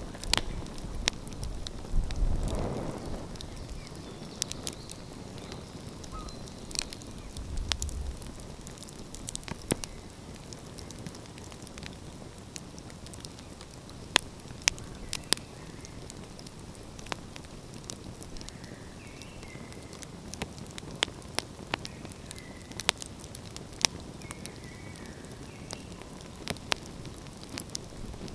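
Wood fire crackling, with scattered sharp pops and snaps over a steady low rushing background; a louder rush swells about two to three seconds in.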